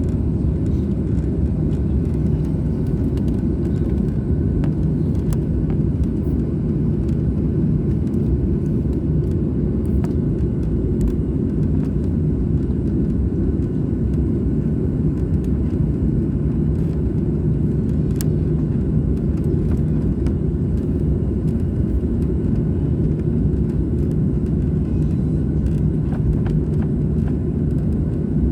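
Airliner's engines running: a steady low rumble with a faint hum, unchanging in level.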